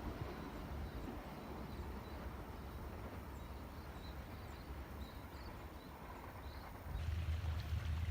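Quiet trackside ambience: a faint low rumble with a few small bird chirps. About seven seconds in, a louder steady low hum cuts in abruptly.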